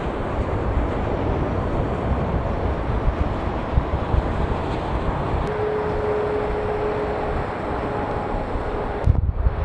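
Jet airliner engines at takeoff power, a steady loud noise with a faint whine joining about halfway. Near the end it breaks off abruptly into wind buffeting the microphone.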